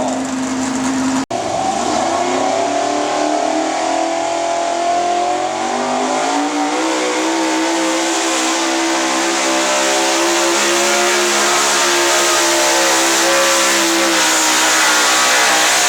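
A hot gas (modified gasoline-engine) 4x4 pulling truck at full throttle pulling the sled. The engine note climbs over the first few seconds and then holds high and steady. The sound drops out for an instant about a second in.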